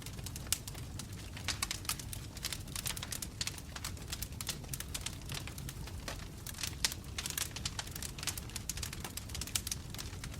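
Wood fire of burning logs crackling: dense, irregular snaps and pops over a low steady rumble.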